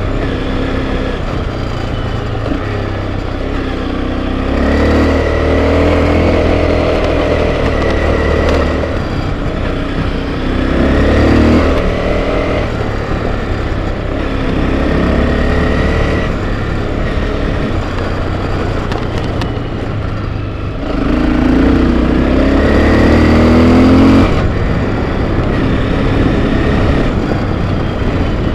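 Enduro motorcycle engine running under way on a trail, its pitch rising and falling as the throttle is opened in several surges, over steady wind and road noise.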